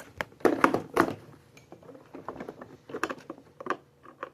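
Hard plastic parts of a Bissell PowerForce upright vacuum being handled and taken apart, giving a run of irregular clicks, knocks and light clatters.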